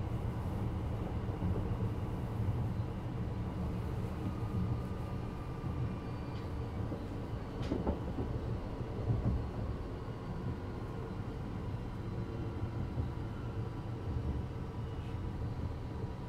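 Interior sound of a Class 333 electric multiple unit running between stations, heard above its traction motors and bogie: a steady low rumble of the wheels on the track with a faint steady motor whine. A single sharp knock comes about eight seconds in.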